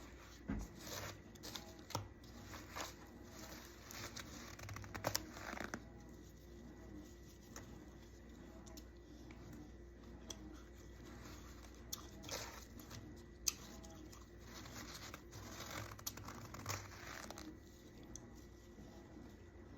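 Frost built up on a plate in a deep freezer being scraped and crunched: irregular scratchy, crinkling strokes in clusters, with one sharp click about two thirds of the way through. A steady low hum runs underneath.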